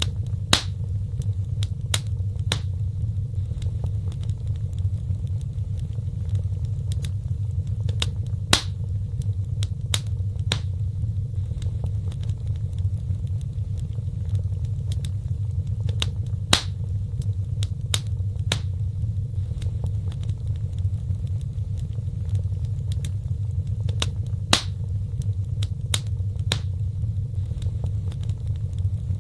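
Wood fire burning in a fireplace: steady crackling with frequent sharp pops over a low, even rumble, and a louder pop about every eight seconds.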